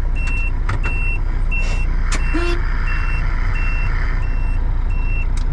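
Tractor cab's turn-signal indicator beeper sounding short, even, high beeps, about three every two seconds, over the low drone of the tractor's diesel engine.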